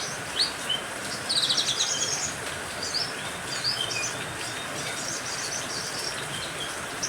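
A mix of songbirds such as canaries, green leafbirds and lovebirds chirping and trilling over the steady hiss of rain. A fast, loud trill about a second and a half in is the most prominent call.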